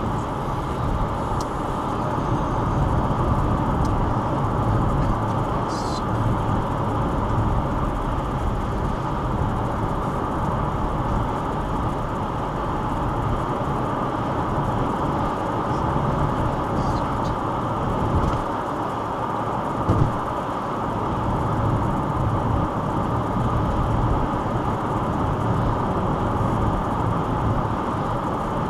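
Car road noise heard from inside the cabin: the engine and tyres running steadily on a wet road. There are a few faint ticks and one brief knock about twenty seconds in.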